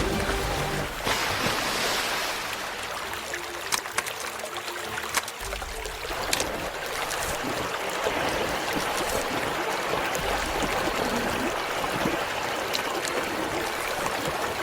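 River water rushing and splashing, with a few brief sharper splashes.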